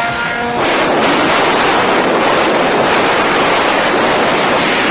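Loud, steady rush of wind buffeting the microphone in a car at racing speed, drowning out the engine. It sets in about half a second in.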